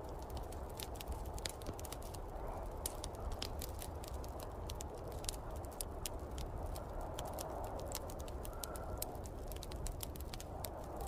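Wood fire crackling, with frequent irregular sharp pops, over a steady low rumble and wavering whoosh of snowstorm wind.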